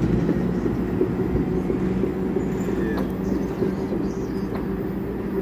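NJ Transit commuter train of Bombardier bilevel coaches pulling away: wheels rumbling on the rails under a steady low hum, slowly fading as the last car goes by.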